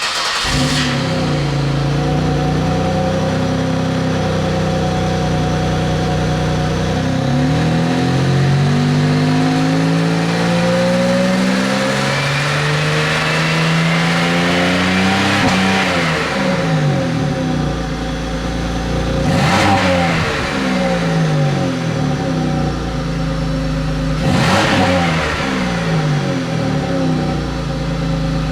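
A 2002 Pontiac Bonneville's 3.8-litre V6 running on its stock exhaust from a cold start, with 198,000 miles on it. It idles, then revs climb gradually to a peak about halfway through and fall back, followed by two short, quick blips of the throttle and a return to idle.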